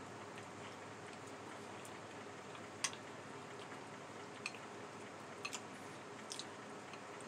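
Faint chewing of a mouthful of beef vegetable soup, with a few short, sharp clicks as a metal spoon works in a glass bowl, over a steady faint hiss.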